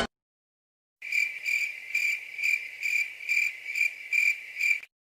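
Crickets chirping, the stock 'awkward silence' sound effect: about nine evenly spaced chirps on one steady high pitch, roughly two a second, starting about a second in.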